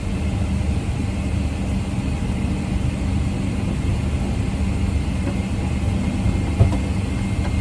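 Boeing 777 cabin hum while parked at the gate: a steady rush of ventilation air over a low drone with a constant low tone. There is one brief knock about six and a half seconds in.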